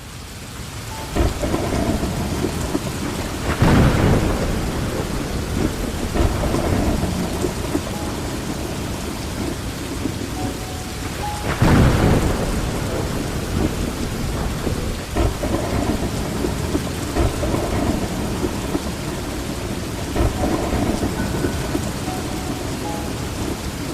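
Heavy rain falling steadily on leaves, fading in at the start, with two louder low rumbling surges about 4 and 12 seconds in.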